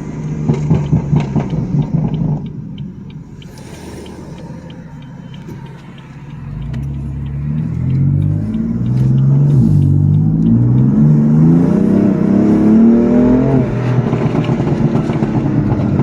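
Tuned BMW M4's twin-turbo straight-six accelerating hard through several upshifts: the engine note climbs and drops back at each shift, after a few seconds of lighter running. It then holds a steady, loud, rough note.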